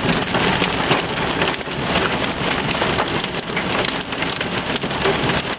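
Large hailstones pelting a car, heard from inside the cabin: a dense, continuous clatter of hard impacts.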